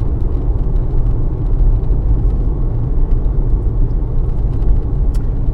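Steady road and engine noise inside a moving car's cabin, a continuous low rumble.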